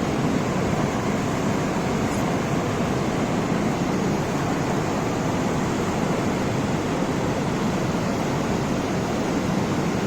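Steady rush of a swollen river pouring over waterfalls and through rough water after flooding.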